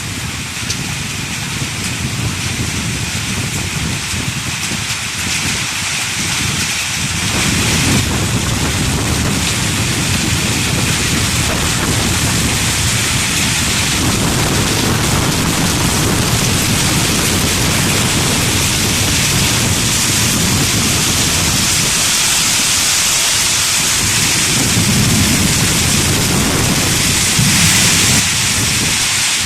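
A summer hailstorm: heavy rain and hail pelting down in strong wind, with a low rumble that swells and fades. The downpour gets louder about eight seconds in and stays heavy.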